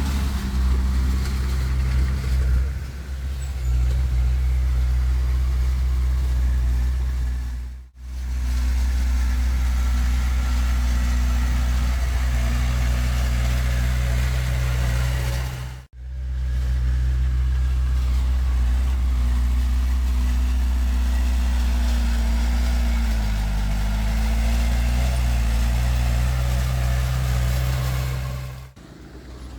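Heavy diesel engine of earthmoving machinery running steadily with a deep, low drone. It cuts out abruptly and briefly about 8 and 16 seconds in and again near the end. Its pitch sags and recovers about two-thirds of the way through.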